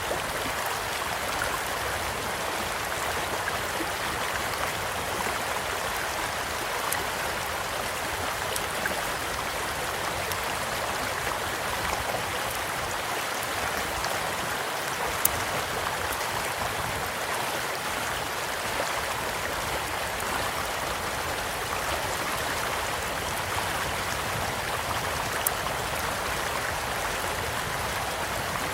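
A small stream flowing steadily, with sparse sharp pops and crackles from a campfire; the loudest pop comes about halfway through and another near the end.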